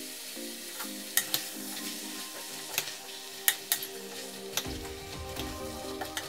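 Leeks and potato cubes sizzling as they fry in a stainless steel pot, stirred with a wooden spoon that knocks against the pot several times.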